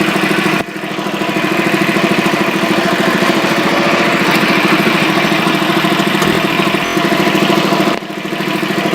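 Tractor engine running steadily at a fast, even beat, with a brief drop in level about half a second in and again near the end.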